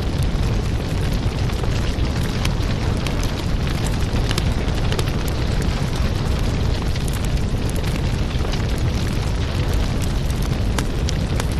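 Firewood burning, with a steady low rumble of the fire and many sharp crackles and pops of the wood.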